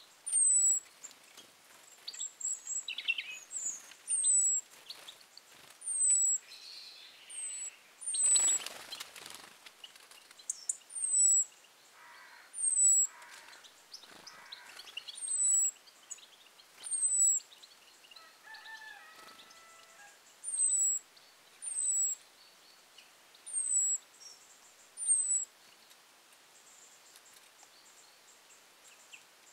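A small bird repeating one thin, high, falling call about every second and a half, stopping a few seconds before the end, with softer scattered bird chirps in between. A brief rushing noise comes about eight seconds in.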